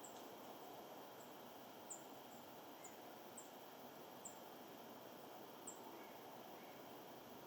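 Small birds giving short, very high chirps, about eight single notes at irregular intervals, faint over a steady outdoor background hiss.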